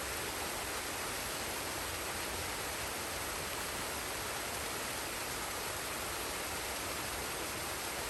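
Forest waterfall and stream: steady, unbroken rush of falling water, bright and hissing with no single splashes standing out.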